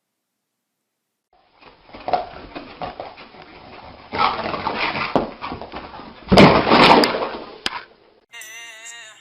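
A dog vocalising, with clicks and knocks mixed in. It starts after a second and a half of silence and is loudest about six and a half seconds in. Music starts near the end.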